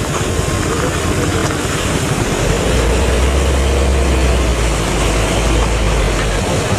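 Heavy truck engine running, with a low rumble that grows louder from about two and a half seconds in and eases near the end, over steady road noise.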